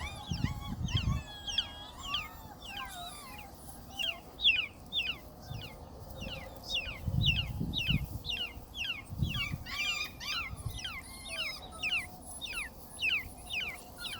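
A bird calling over and over: short, high chirps falling in pitch, about one and a half a second. A few low rumbles come in near the start and again later.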